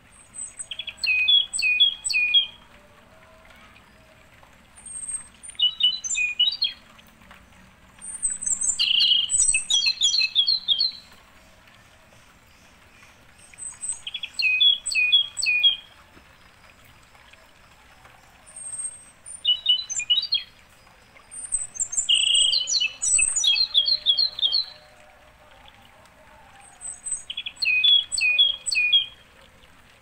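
A songbird singing one short song phrase after another, about seven in all, spaced a few seconds apart. Each phrase is a quick run of short, high, repeated notes, some with thinner, even higher notes on top.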